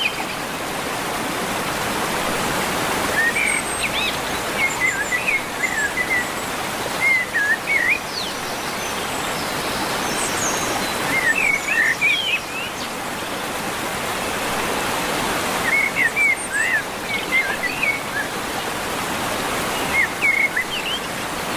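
A songbird singing short chirping phrases about every four seconds over a steady rushing hiss of running water.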